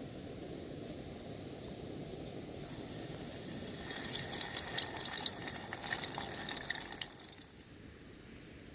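Food crackling and sizzling in hot frying oil, a dense spatter of sharp pops that starts a few seconds in and dies away near the end, over a steady low rumble of wind.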